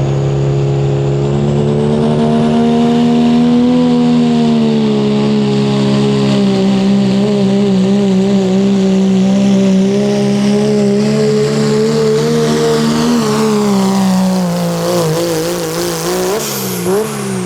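Diesel pickup truck engine at full throttle under load in a sled pull, holding high revs with a faint high whistle above it. About three-quarters of the way through the revs fall and surge up and down a few times as the pull ends, then drop away.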